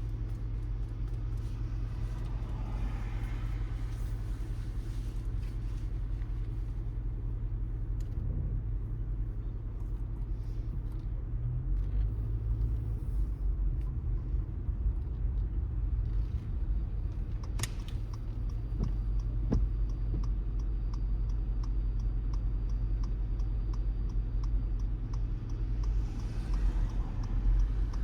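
Steady low rumble of a car driving on wet roads, engine and tyre noise. There is a sharp click about two-thirds of the way through, then a faint, rapid, regular ticking for several seconds.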